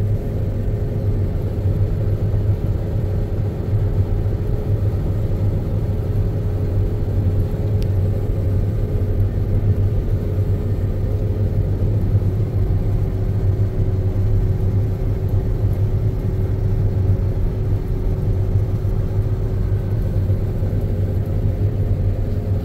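John Deere X9 combine running steadily under load while harvesting canola: an even low drone with a faint steady hum above it.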